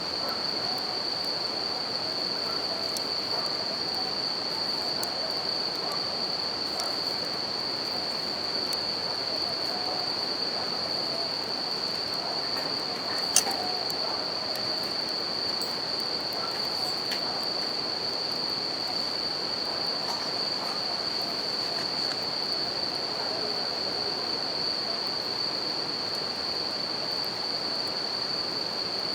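Bell crickets (suzumushi) calling in a steady high-pitched trill over the constant rush of a river, with a few crackles from a wood campfire and one sharp pop about thirteen seconds in.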